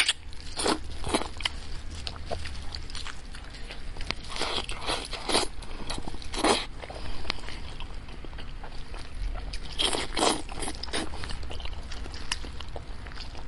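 Close-miked chewing and biting of cooked goat head meat: wet mouth sounds with irregular crunchy clicks and smacks.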